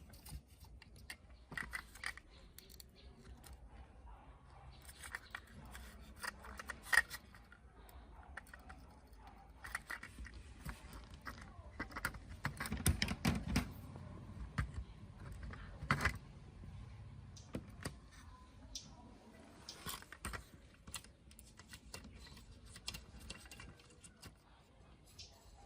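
Irregular small clicks and taps of hand work on small parts, with a cluster of low knocks about halfway through.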